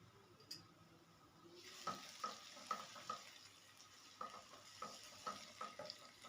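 Food frying and sizzling in a pan while a spoon stirs it, knocking and scraping against the pan again and again. The sizzle starts about one and a half seconds in.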